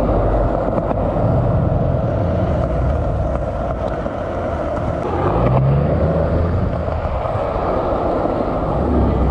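Car engines running low and steady as cars roll past, with a short rise in engine pitch a little past halfway.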